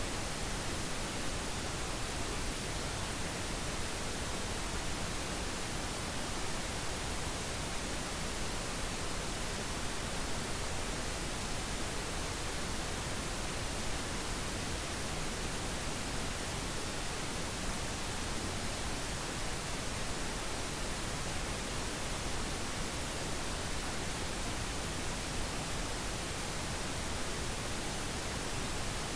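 Steady synthetic pink noise: an even, unchanging hiss across the whole range with no events.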